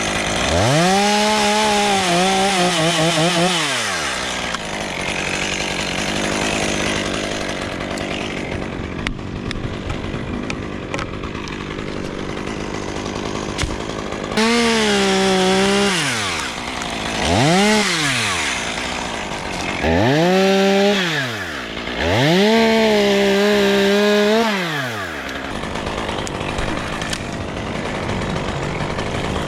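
A chainsaw revving up to full speed and dropping back, five times, the longest bursts a few seconds each, over a steady noisy background.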